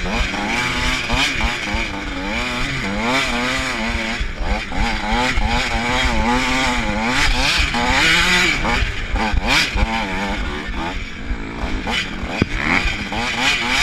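KTM supermini motocross bike engine revving hard and easing off over and over, its pitch climbing and dropping about once a second as the rider works the throttle through the track.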